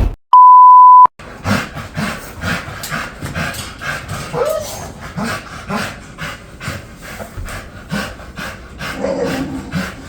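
A loud one-pitch beep lasting under a second, then a dog panting rapidly and steadily.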